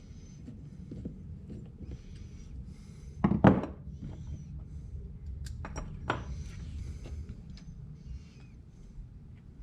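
Carburetor parts and hand tools handled on a workbench: one loud thunk a little over three seconds in, then a few sharp clicks, over a steady low background hum.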